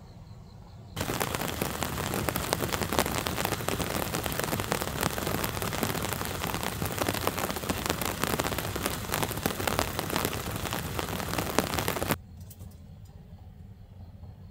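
Heavy rain on a hard surface, a dense patter of countless drops that starts suddenly about a second in and cuts off suddenly some eleven seconds later.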